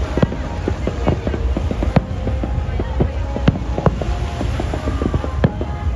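Fireworks going off in an irregular series of sharp bangs and pops, about one every half second to second, amid crowd voices.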